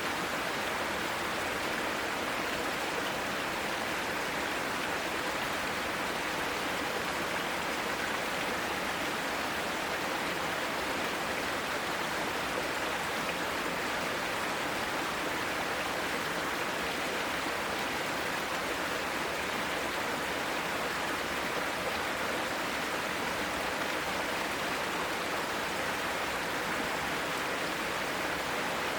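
Mountain stream rushing over rocks in a mossy valley: a steady, unbroken water sound.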